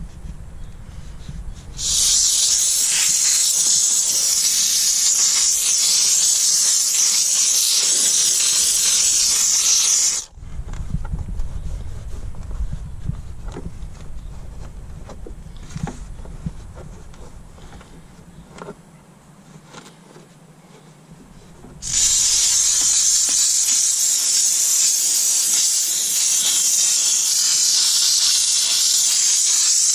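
Dupray Neat canister steam cleaner jetting steam onto a truck engine: a loud, steady hiss starts about two seconds in and stops about ten seconds in, then starts again about twenty-two seconds in. In between it is quieter, with a low rumble and a few light clicks.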